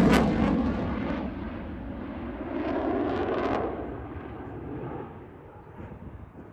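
Jet noise of a Eurofighter Typhoon's twin EJ200 turbofans fading as the aircraft moves away. It swells briefly about three seconds in, then dies down.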